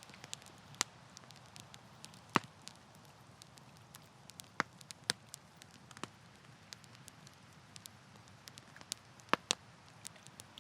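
Campfire crackling: irregular sharp pops and snaps of burning wood, the loudest about two seconds in and near the end, over a soft low hiss and rumble of the flames.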